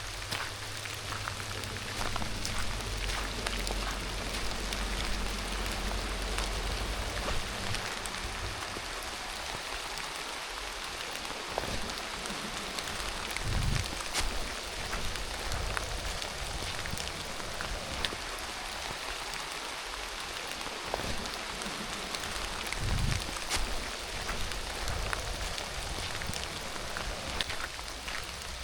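Steady rain falling, with scattered sharper drop hits. A low rumble underneath fades out about eight seconds in, and two soft low thumps come later.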